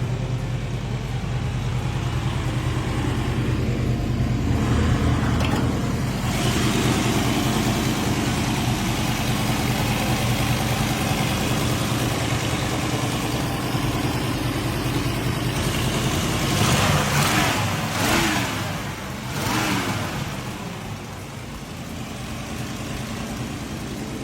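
Classic car's V8 engine running steadily, then revved briefly three times about three-quarters of the way through before settling back.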